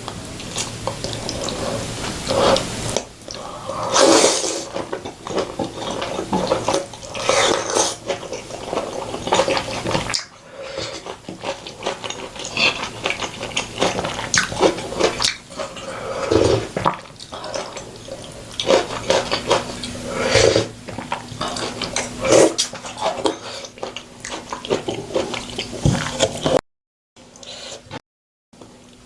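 Close-miked eating sounds: wet chewing and slurping of Korean-Chinese noodles, soup and sauced fried pork, in a steady string of short sharp smacks and squelches. The sound cuts out twice briefly near the end.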